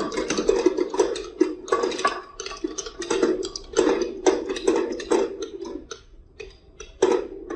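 Marbles rolling and clacking down a wooden marble run: a steady rolling rumble with many quick clicks, thinning out about six seconds in, then a short clatter near the end.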